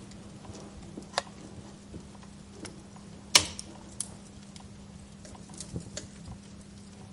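Wood fire crackling, with scattered small clicks and sharp pops; the loudest pop comes about three and a half seconds in, another just after a second in. A faint steady low hum runs underneath.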